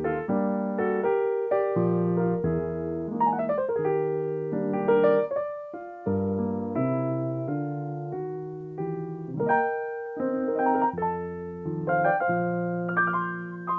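Solo piano playing chords and melodic runs, notes struck and left to ring.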